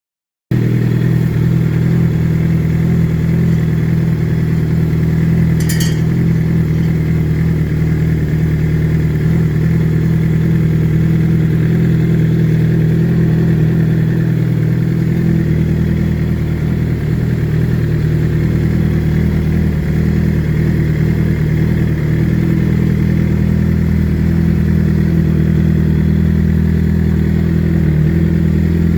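Suzuki GSX-R750 SRAD's inline-four engine running steadily. It cuts in suddenly about half a second in, and there is one brief sharp click about six seconds in.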